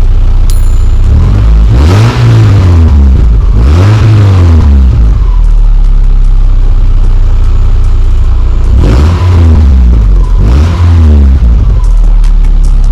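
Subaru flat-four boxer engine revved through aftermarket Ultrex sports mufflers: a steady idle broken by four quick free revs in two pairs, each rising and falling back.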